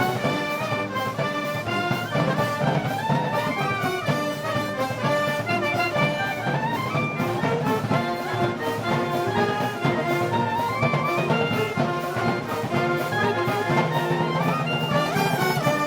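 Festival brass band music for Moros y Cristianos, with a brass melody over a steady percussion beat.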